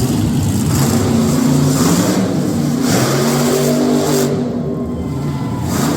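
Monster truck engines revving hard, their pitch rising and falling several times.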